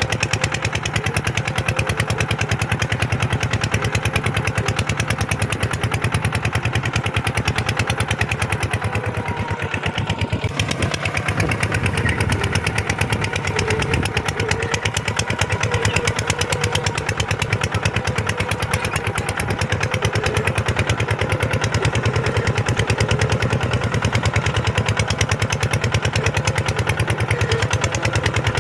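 Kubota tractor's diesel engine running steadily with a fast, even chugging beat.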